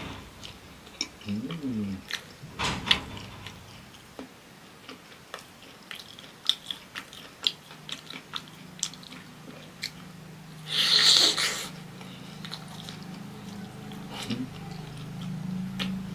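Close-miked biting and chewing of a fried pastel pastry, with many short crisp clicks and smacks. A brief loud hiss of breath comes about eleven seconds in, and a low steady hum runs through the second half.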